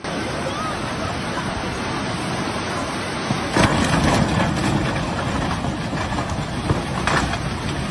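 A steady rushing roar of water, with a few knocks and a brief swell in loudness about halfway through.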